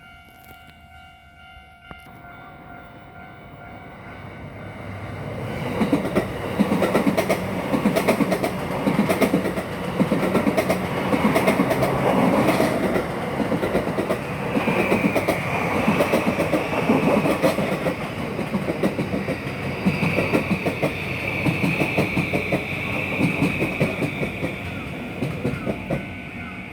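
JR East E235 series electric commuter train passing over a level crossing, its wheels clacking over the rail joints in a fast, even rhythm for about twenty seconds, with a high whine coming and going in the second half. Before the train arrives, the crossing's warning bell rings with a steady repeated tone.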